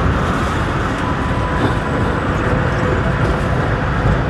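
Train running past with a steady low rumble and a faint steady whine.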